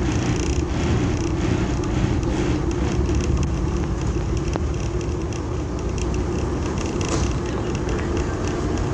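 Heritage train moving slowly along a station platform, heard from a carriage window: a steady low rumble of the train running.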